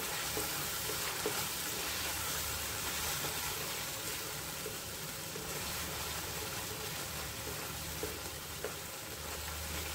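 Spice paste frying in mustard oil in a metal kadhai, sizzling steadily while a wooden spatula stirs it round the pan, with a few light taps of the spatula.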